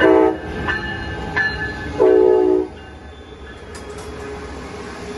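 Train horn sounding two blasts, a short one at the start and a longer one about two seconds in, with a bell dinging about every 0.7 seconds in between.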